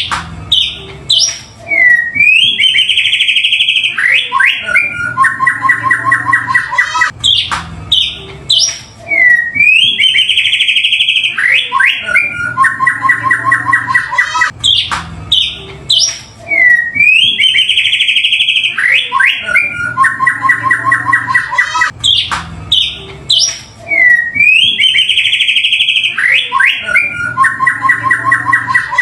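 White-rumped shama (murai batu) song played as a repeating loop, about four times in all: each round is a fast run of repeated notes, a few downslurred whistles, then a dense, high phrase that is the loudest part. A faint steady low hum runs underneath.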